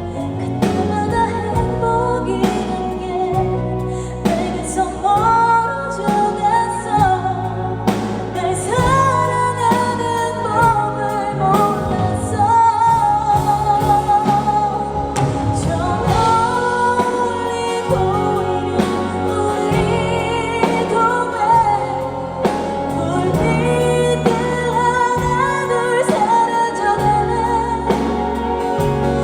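A female pop singer sings a ballad live over a band through a PA system, holding long notes with vibrato over steady bass and drums. The recording is loud and distorted.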